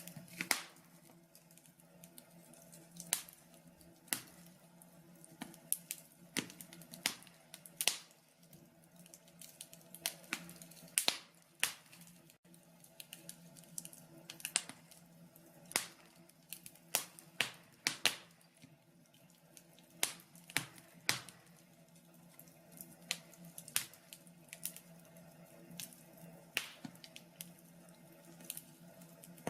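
Wood fire in a log burner crackling, with irregular sharp pops and snaps of burning logs over a faint steady hum.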